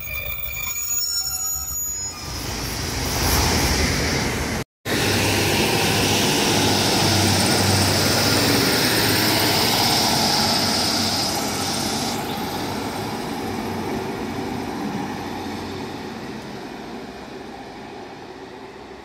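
Diesel multiple-unit passenger train running past along the platform, wheels squealing high on the rails, then fading as it pulls away down the line. A brief dropout just before five seconds in.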